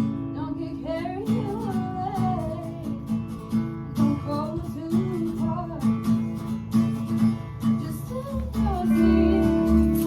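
Acoustic guitar strummed in a steady rhythm while a voice sings a melody over it; a deeper bass part joins about eight seconds in.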